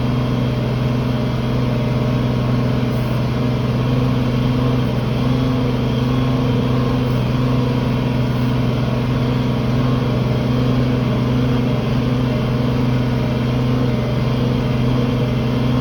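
International Harvester 1566 tractor's six-cylinder turbo-diesel running at a steady, unchanging pitch under load, pulling a field cultivator.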